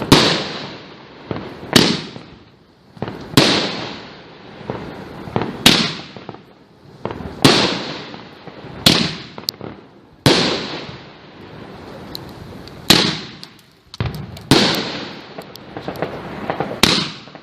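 Consumer firework cake firing shot after shot: about a dozen sharp bursts, roughly one every second and a half, each trailing off in a fading hiss.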